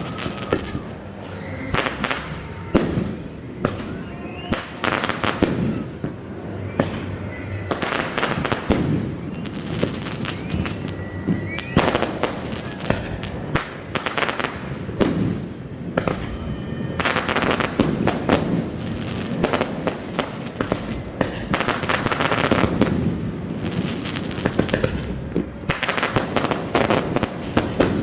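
Fireworks display going off: a dense, continuous barrage of bangs and crackling bursts, one after another with hardly a pause.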